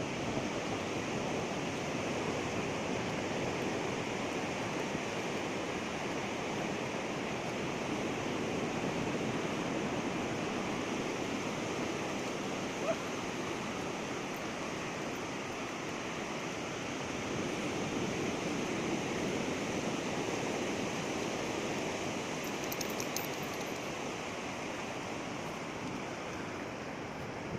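Steady wash of surf breaking on a beach, with one short click about halfway through.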